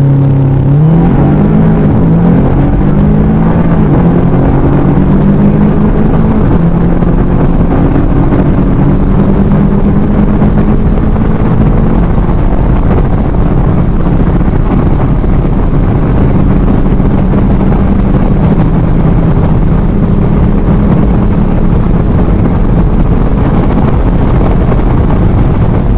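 Turbocharged 2.0-litre four-cylinder car engine under full-throttle acceleration from a standstill, heard inside the car. The revs climb and drop back at each upshift, with quick shifts at first and longer pulls in the higher gears.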